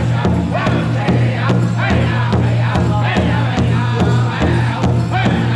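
Powwow drum group singing high, wavering melody lines over a steady unison beat on a big drum, about three beats a second.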